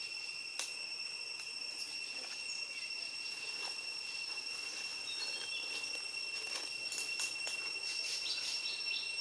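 Steady high-pitched insect drone with one unbroken tone, joined by a few sharp clicks or snaps, several close together about seven seconds in, and a few faint short chirps.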